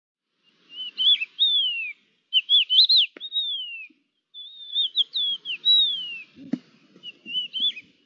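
A songbird singing: four whistled phrases of one to two seconds each, made of quick up-and-down sliding notes, with short pauses between them.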